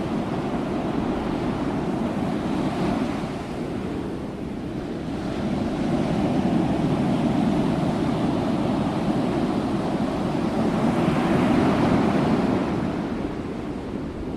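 Sea waves washing onto the shore in a continuous surf, swelling and ebbing, with the loudest surge about three-quarters of the way through.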